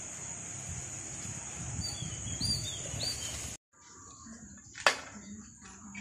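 Outdoor background with a steady high-pitched tone and three short bird chirps a little past halfway. After a sudden cut the sound goes much quieter, and a single sharp tap comes about five seconds in.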